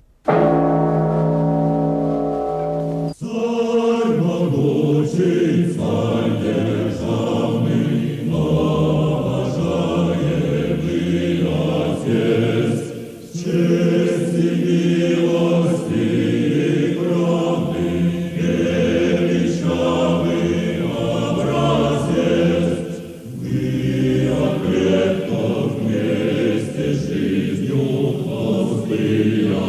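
A choir singing. It holds one chord for about the first three seconds, then moves on through phrases, with brief pauses twice.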